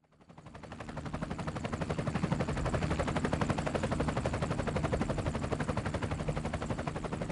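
Helicopter rotor beating: a rapid, even chop of blade passes over a steady engine drone, fading in over the first second or two and easing slightly near the end.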